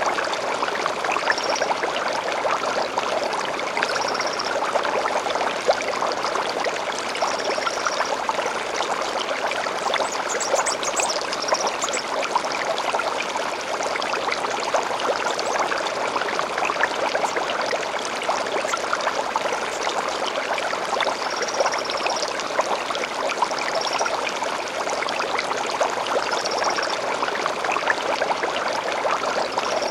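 Gently flowing stream, a steady trickle, with short high birdsong chirps every few seconds and a brief burst of higher notes about a third of the way in.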